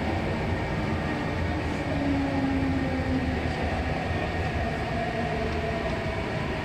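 Korean-built MTR East Rail Line train running, heard inside the car: a steady rumble with a faint motor whine.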